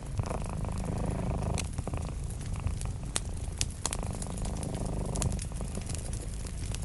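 A cat purring steadily, with a wood fire crackling and popping in sharp, scattered clicks.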